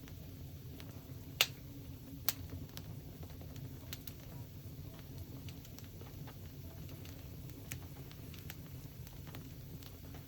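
Wood fire crackling, with scattered small pops over a low steady rumble and two sharper snaps about a second apart near the start.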